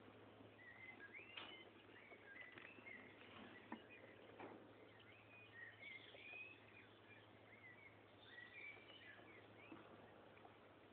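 Faint birds chirping in short, repeated rising and falling notes, with a few faint clicks and a steady low hum underneath.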